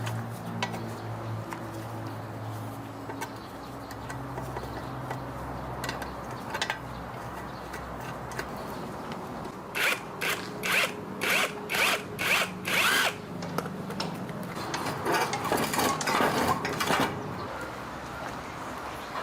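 A power tool, such as a drill, runs with a low hum, then is triggered in a quick string of about seven short bursts. Near the end comes a longer spell of rough, noisy working.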